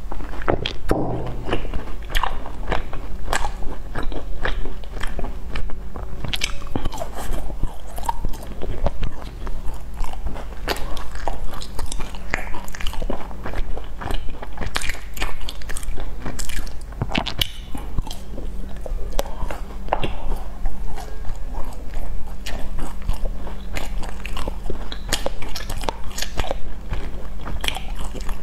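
Close-miked chewing and biting of sticky, sesame-coated glazed fried pastry: moist chewing with many small, irregular crunchy clicks.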